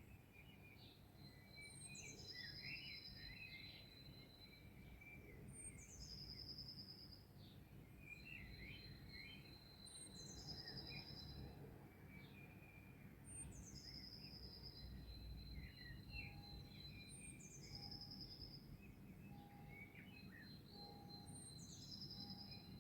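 Faint songbird chorus: one bird repeats the same high phrase about every four seconds, a quick falling flourish ending in a held whistle, over scattered chirps from other birds and a low background rumble. After about 16 seconds a lower short note, repeated about once a second, joins in.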